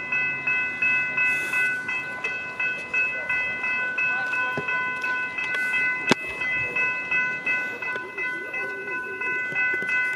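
Railway level crossing bells ringing in an even, repeated ding about two to three strokes a second, a sign that the crossing is still active and the boom gates are still down. A single sharp knock sounds about six seconds in.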